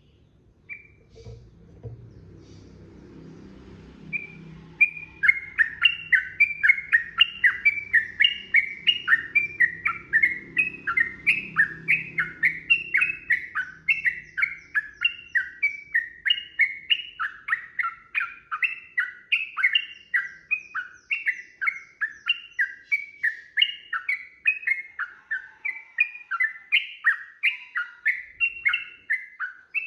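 Yellow-vented bulbul (trucukan) singing a long unbroken run of quick repeated bubbling phrases, about two or three a second, starting a few seconds in.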